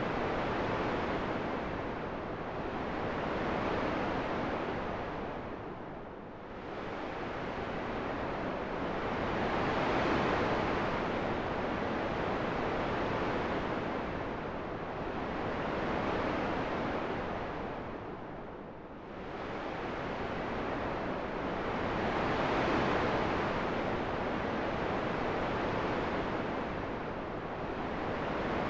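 Wind blowing as a steady rushing noise that swells and eases in slow gusts, sinking into deeper lulls about six seconds in and again near nineteen seconds.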